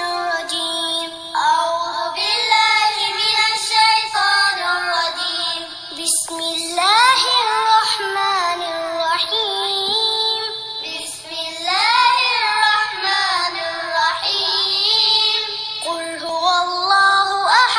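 High-pitched singing voice carrying a melody of held notes and smooth slides between them.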